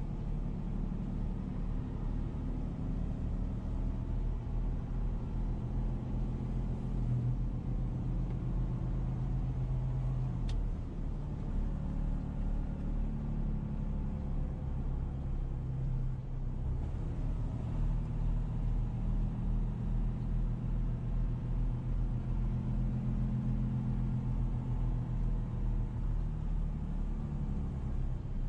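Motor vehicle driving along: a steady engine hum with road rumble underneath, the engine note drifting slightly up and down.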